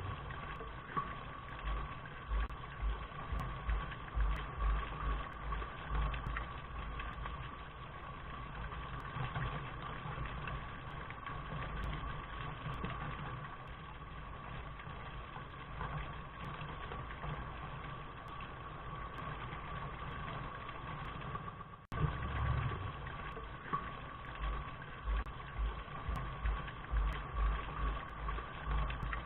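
A looped rain recording: a steady hiss with irregular low thumps and rumbles. About 22 seconds in there is a brief dropout where the loop restarts.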